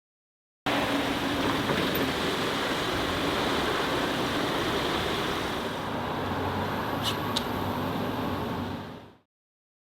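Steady vehicle noise from a car on the move: engine and road noise, with two quick clicks about seven seconds in. It starts abruptly and fades out just before the end.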